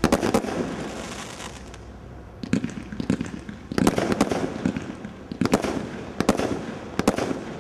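Skycrafter Ultimate Warrior fireworks cake firing volley after volley: about six shots at uneven spacing. Each is a cluster of sharp cracks followed by a burst that fades away.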